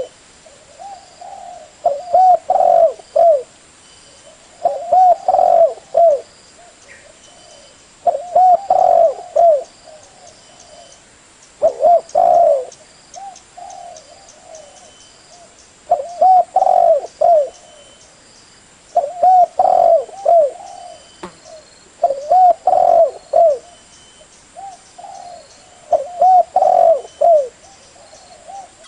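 Spotted dove cooing: a loud phrase of several curved coo notes, each phrase about a second long, repeated about nine times at intervals of three to four seconds, with softer coos between.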